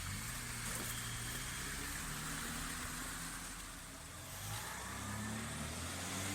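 Off-road vehicle's engine running at low revs, easing off slightly about two-thirds of the way through and then picking up again.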